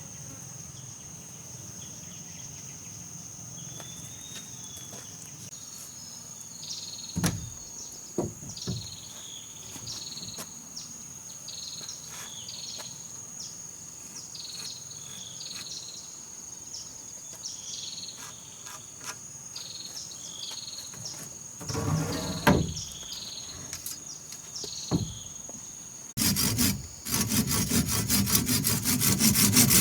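Steady high-pitched insect buzz with a few scattered knocks of wood. Near the end a hand saw starts cutting wood with quick, even strokes, much louder than the rest.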